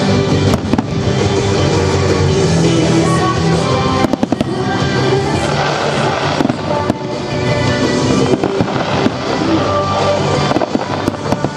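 Aerial firework shells bursting in a display: sharp bangs, a quick cluster about four seconds in and single ones later, over loud music with sustained tones.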